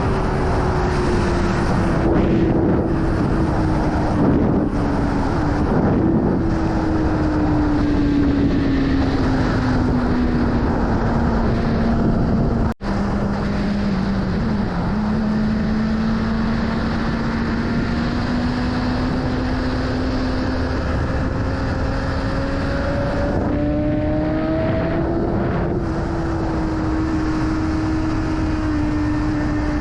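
BMW S1000RR inline-four engine under way with heavy wind rush. The engine note falls slowly as the bike eases off, breaks for an instant about 13 seconds in, then climbs gently and holds at a steady cruise.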